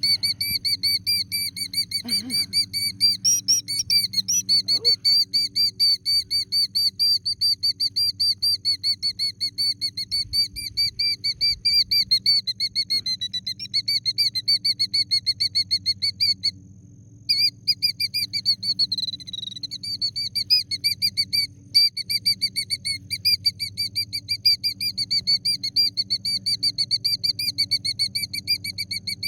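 A killdeer screaming a rapid, repeated run of alarm calls, about four notes a second, with a couple of brief breaks. This is a parent bird defending its nest of eggs against a person close by.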